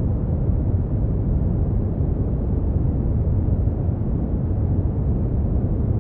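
Steady brown noise: an even, deep rumbling hiss weighted toward the low end, with little above the midrange.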